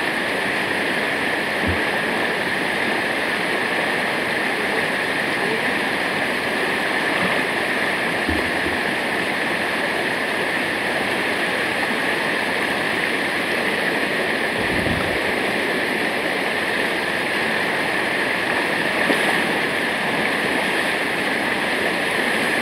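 Steady rush of falling water from a waterfall, an even noise that doesn't let up.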